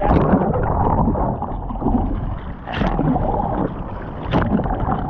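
Sea water sloshing and splashing around a surfer in the surf, with wind on the microphone; a couple of sharper splashes stand out, about halfway through and again near the end.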